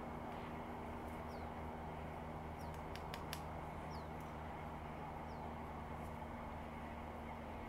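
Faint, short, high chirps from a small bird, each falling in pitch, repeating about every second and a half over a steady low mechanical hum, with a few quick clicks about three seconds in.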